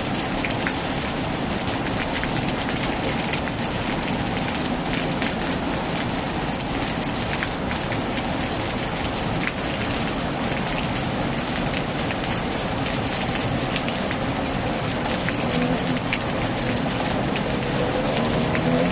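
Heavy rain falling steadily on a tin roof, a dense even hiss full of small drop ticks. Near the end a faint low hum with a rising pitch comes in under the rain.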